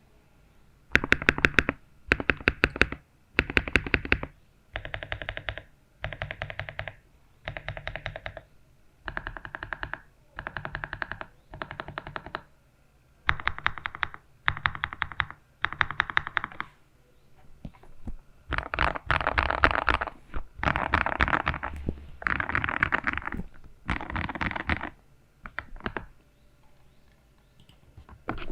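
Typing on a GMK67 mechanical keyboard fitted with lubed Gateron Pro Milky Yellow linear switches and a five-layer tape mod. Short bursts of rapid key presses, each about a second long with brief pauses between, give way past the middle to longer, faster runs of typing, then thin out near the end.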